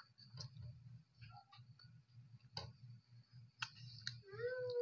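Close mouth sounds of someone eating kinilaw na imbaw (clams in vinegar): scattered wet clicks and lip smacks of chewing over a low steady hum. Near the end a high, wavering whine begins.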